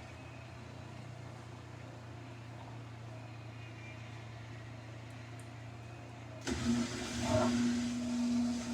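Samsung front-load washing machine humming low and steady mid-cycle. About six and a half seconds in, the drain pump switches on with a steady hum and water rushing out as the drum drains before spin.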